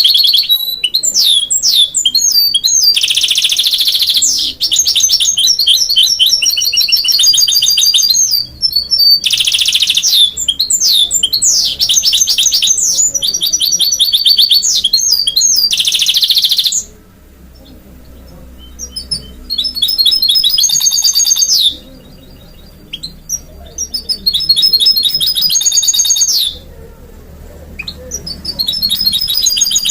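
Goldfinch × canary hybrid (mule) singing: rapid, high twittering trills and quick runs of repeated notes in long phrases, broken by three short pauses in the second half.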